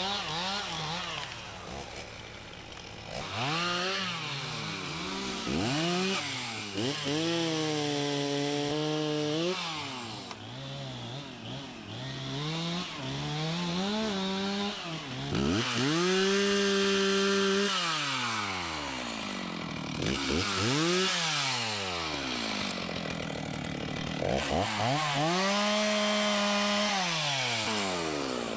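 Two-stroke chainsaw revving up to full throttle and back down about eight times, the high pitch held for a second or two at a time as it cuts through fallen timber.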